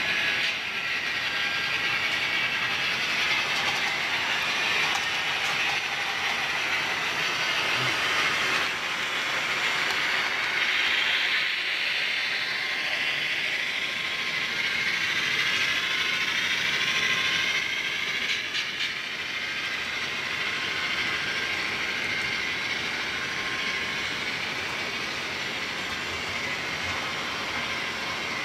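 HO scale model train running on newly laid flex track, a first test run of the loop: a steady mechanical whir of the locomotive motor and gearing with wheel noise on the rails.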